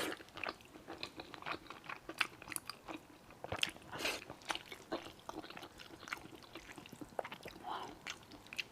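Close-miked mouth sounds of someone eating thick, chewy sweet-potato starch noodles and vermicelli in sesame paste: soft, irregular wet smacks and clicks of chewing.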